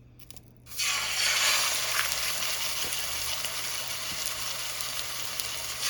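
Seasoned chicken pieces going into hot oil in a frying pan. A few light clicks, then a sudden loud sizzle about a second in that carries on steadily as the chicken starts to pan-fry.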